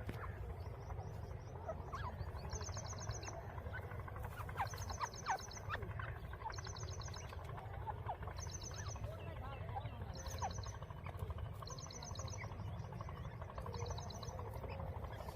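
Grey francolin chicks giving short, thin cheeping chirps. A high, rapid pulsing trill repeats about once a second over a steady low rumble.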